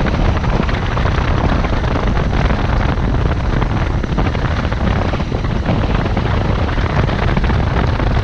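Motorcycle riding along at a steady pace, its engine under a constant rush of wind on the microphone.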